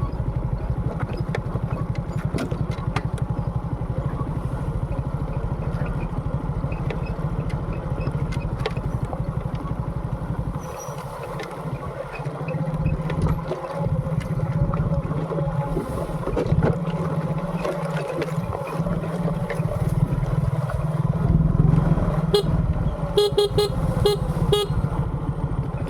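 Motorcycle engine running steadily while riding; it eases off about halfway through and then picks up again. Near the end comes a quick series of short horn beeps.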